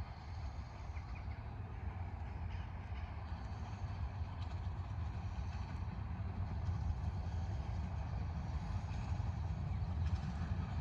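A train on a 15-inch-gauge miniature railway approaching: a low rumble that grows slowly louder.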